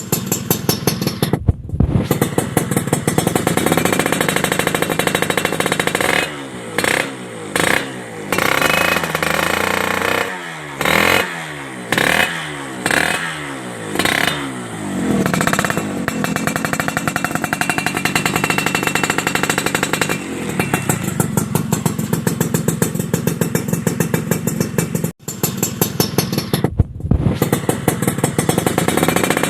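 Suzuki Satria motorcycle through a WRS racing exhaust, idling with a fast, crackly pulse. About a fifth of the way in it is revved in a string of short throttle blips, each falling back quickly, and then it settles back to idle.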